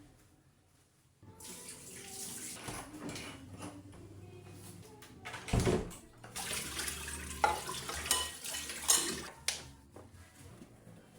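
Water running, starting about a second in, with several sharp knocks and clinks over it.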